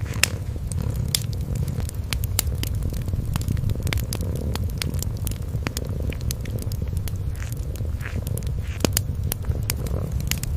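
A kitten purring steadily, a continuous low rumble, under the scattered crackles and pops of a fireplace fire.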